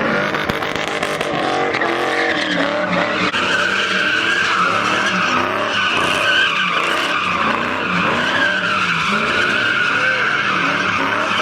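A car's tyres screeching steadily under wheelspin, with its engine revving up and down underneath.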